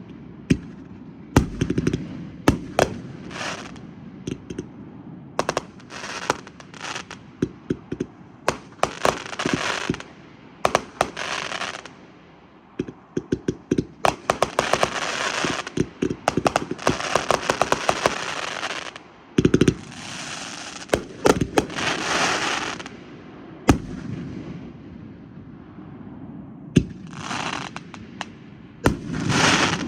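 Fireworks going off: repeated sharp bangs, with dense runs of rapid pops and crackling between them.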